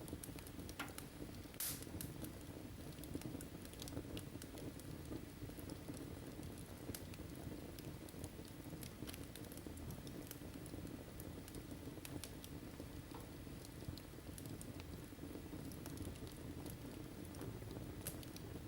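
Wood fire in a fireplace crackling: faint scattered pops and snaps over a low steady rumble, with one sharper pop about one and a half seconds in.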